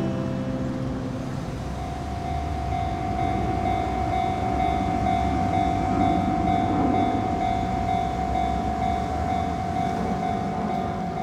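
Nishitetsu electric commuter train running along the ground-level track, a rumble that builds to its loudest about six to seven seconds in and then eases, over a steady high tone.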